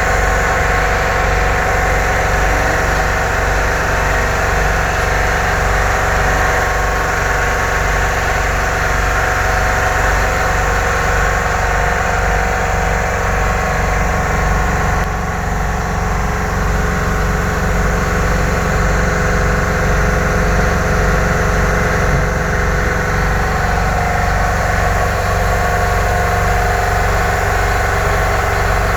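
Vehicle engine idling steadily at an even speed.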